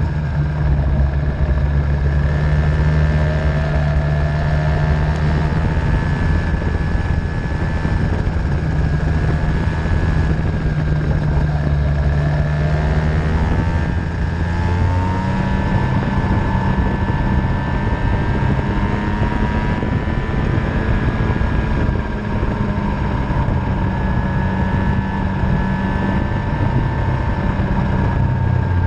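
50cc Venom racing engine running continuously on track, its pitch slowly rising and falling as the revs change.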